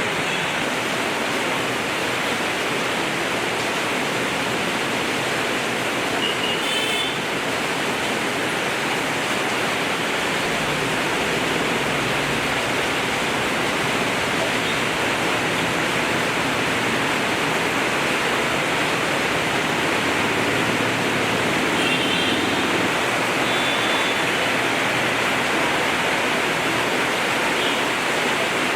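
Torrential rain pouring steadily, a dense even hiss of falling and running water. A few faint high chirps come through about seven seconds in and again past twenty seconds.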